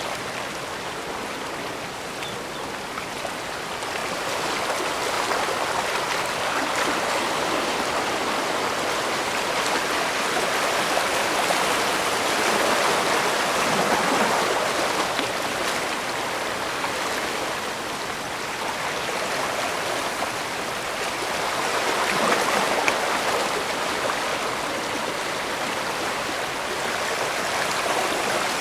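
Bay water washing and splashing against the shore in a continuous rush, swelling and easing slowly over several seconds at a time.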